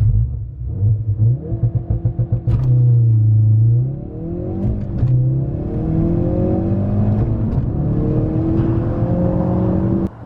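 Ford Focus RS's turbocharged 2.3-litre four-cylinder on a launch-control start. The revs stutter, then are held steady at the launch limit. About four seconds in the car launches and the revs climb, dropping back at each upshift as it accelerates hard through the gears.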